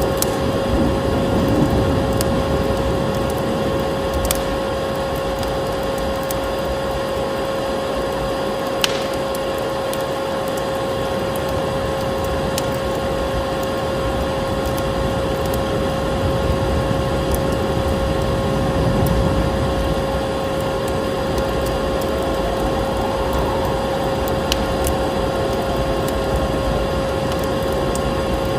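Vacuum cleaner motor running steadily with a constant whine over a rushing hiss, layered with a crackling wood fire that gives scattered sharp pops.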